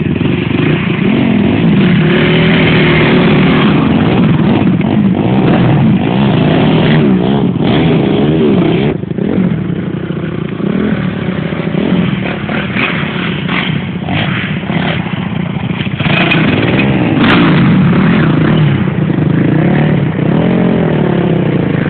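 Dirt bike engine revving hard while riding, its pitch rising and falling again and again as the throttle is worked, a little quieter for a few seconds around the middle.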